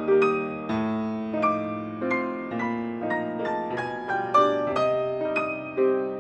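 Solo piano playing a gentle instrumental Christmas tune, notes struck about twice a second over held lower chords.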